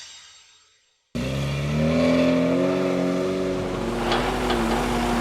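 A fading whoosh, then a brief gap, then an engine starts abruptly about a second in and runs steadily, its pitch rising slightly and then holding.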